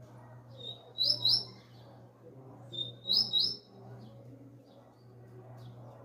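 Double-collared seedeater (coleiro) singing two short, loud, high phrases about two seconds apart, each a brief lead-in note followed by two or three quick ringing notes; the bird is coming back into song after its molt.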